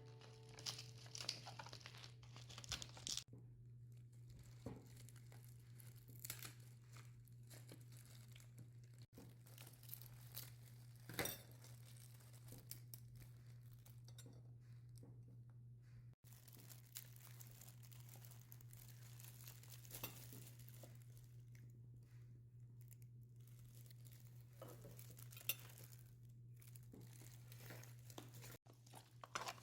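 Faint, scattered crinkling and tearing handling sounds with occasional light clicks, over a steady low hum.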